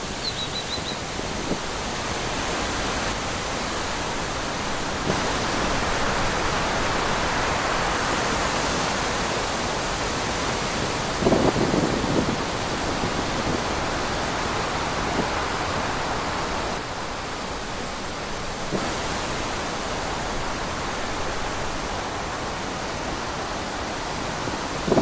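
Natural wind blowing, a steady rushing that swells and eases, with low gusts buffeting the microphone about eleven seconds in and again at the end.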